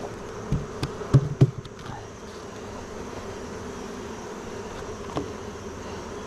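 Honeybees buzzing around an open hive, a steady drone, with a handful of sharp knocks about a second in and one more near the end.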